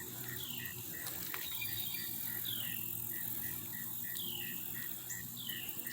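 Outdoor insect chorus: a steady pulsing call of about three pulses a second, with a higher falling chirp repeating every couple of seconds.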